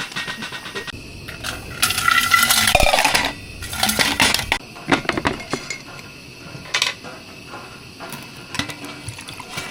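Metal camp cookware and utensils clattering and clinking, with two louder rushes of noise in the first half and a few sharp clinks after.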